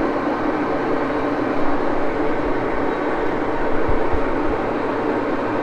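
Axelson engine lathe running at a steady speed, its gear train giving a constant mechanical whir, with a few faint low knocks about four seconds in.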